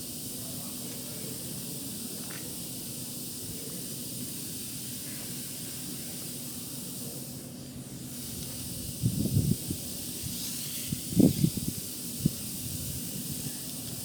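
A steady hiss, with a few short, dull low thumps from about nine seconds in.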